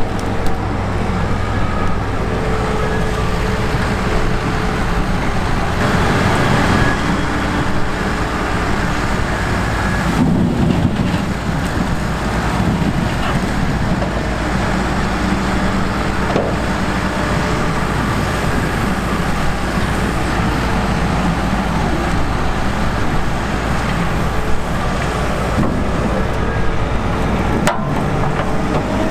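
Heavy diesel farm machinery running steadily in the beet field: a low engine hum with a few held pitches over a continuous mechanical rumble.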